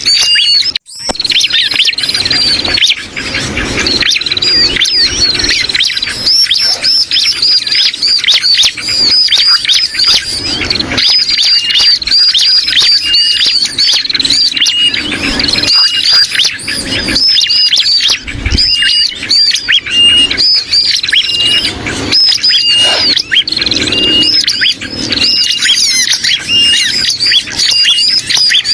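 Bird-lure recording of dense, rapid, high chirping that mixes bar-winged prinia (ciblek) calls with the agitated and distress calls of sooty-headed bulbuls (kutilang), a mix meant to draw prinias in. A short break comes just under a second in, and in the second half a short whistled note repeats about once a second over the chatter.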